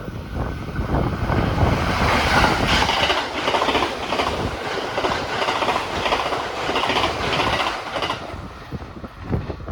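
A train passing, its wheels clacking rhythmically over the rail joints, loudest through the middle and fading toward the end.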